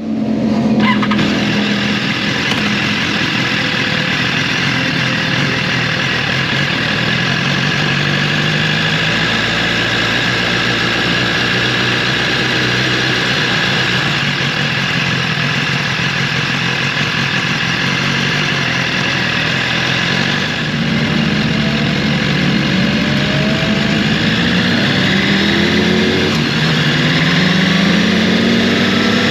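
Motorcycle engine running at a steady speed, its pitch dipping briefly about a second in, then revving up in several rising sweeps near the end.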